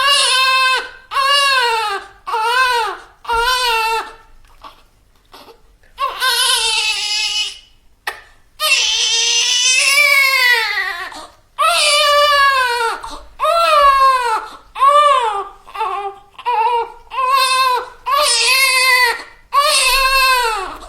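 A person crying: a run of loud, high-pitched wails, each rising and then falling in pitch, broken by a couple of seconds of quieter sobbing about four seconds in and drawn out into one long wail around nine to eleven seconds in.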